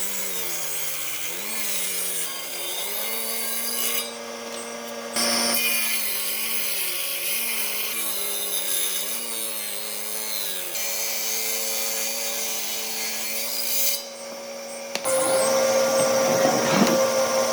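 An electric power tool working old timber: a steady motor pitch that sags and recovers as the tool bears into the wood, over a rough grinding and rubbing on the wood. The sound changes abruptly several times, and the last couple of seconds are louder and harsher.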